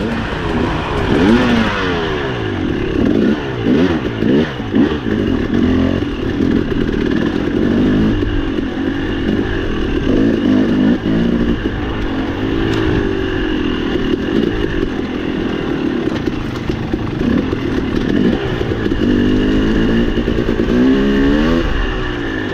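Dirt bike engine revving up and down over and over, its pitch rising and falling every second or two as the throttle is worked on the trail.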